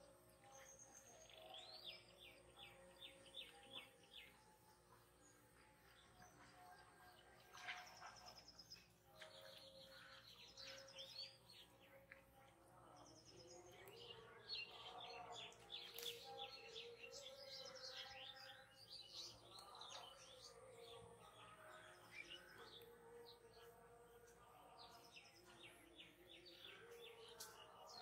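Faint birdsong: small birds calling on and off in quick runs of high, repeated chirps and trills, over a low background hiss.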